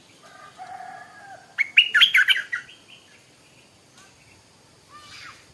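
Stripe-throated bulbul singing: a soft warbled phrase, then, about a second and a half in, a loud burst of quick bright notes lasting about a second.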